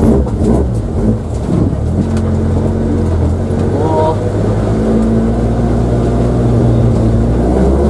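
Toyota AE86's 4A-GE four-cylinder engine, newly fitted with individual throttle bodies and not yet tuned, running at low revs as the car moves off slowly, heard from inside the cabin. The engine note holds steady and lifts slightly about five seconds in.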